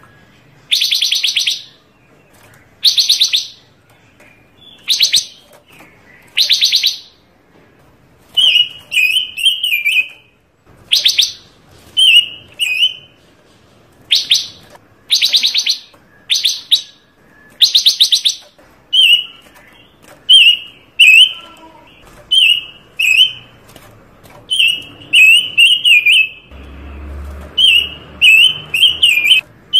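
A songbird kept as a 'panca warna' singing hard and without pause: loud, harsh rattling phrases under a second long, alternating with quick runs of short warbled notes. A low rumble comes in near the end.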